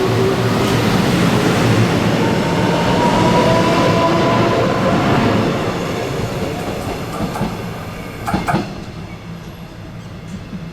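Electric train running through the station on the rails, its rumble and a faint rising motor whine loud at first, then fading steadily as it moves away. A few short knocks come about eight seconds in.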